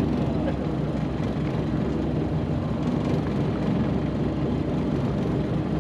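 A boat's engine running steadily at idle, a constant low hum that holds one pitch.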